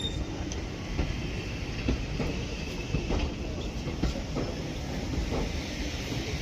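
Steam-hauled heritage train rolling into the station: a steady low rumble of the coaches with wheel clicks over rail joints about once a second. A faint wheel squeal comes in the middle.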